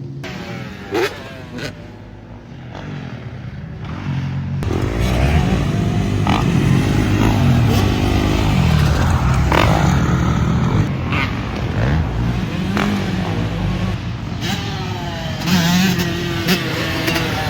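Off-road vehicle engine being ridden hard, revving up and down as it speeds up and backs off. It gets louder about four seconds in, with a couple of sharp knocks near the start.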